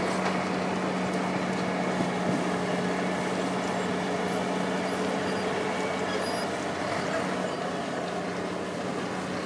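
Wirtgen cold milling machine at work on a road surface: a steady engine hum under a dense, continuous grinding noise, the hum fading somewhat near the end.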